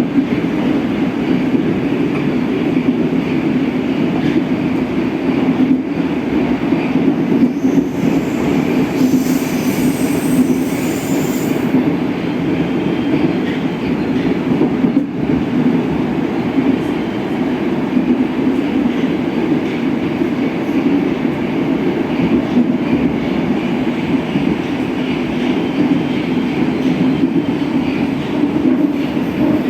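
Moscow metro train running at speed, a steady low rumble of wheels and traction motors, with a brief high hiss about nine seconds in.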